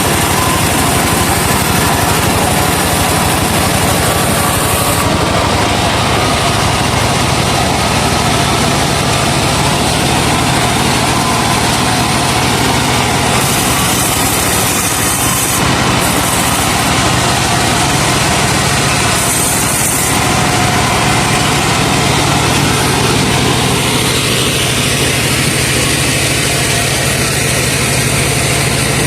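Truck sawmill running: the truck's engine, driving the wood saw, makes a loud, steady, continuous drone.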